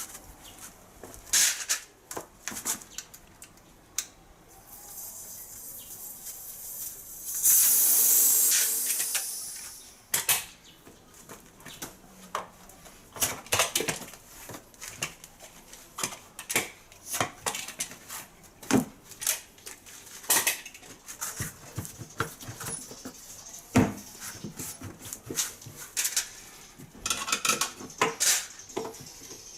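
Metal tools and wheel hardware clinking and clattering irregularly during a tyre change, with a loud burst of hiss about seven to ten seconds in.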